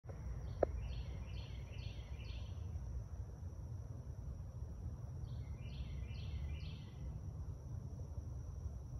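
A songbird calls in two runs of downward-slurred notes, five and then four, about two a second. Underneath is a steady low rumble and a thin, steady high whine, with a single sharp click in the first second.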